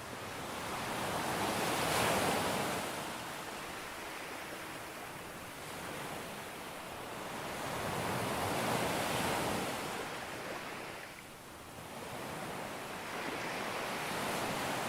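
Sea waves breaking on a beach: three swells of surf, each rising and washing back, peaking about two, nine and fourteen seconds in.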